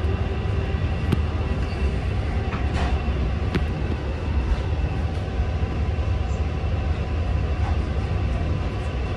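Long Island Rail Road passenger train running at speed, heard from inside the car: a steady low rumble with a few faint clicks.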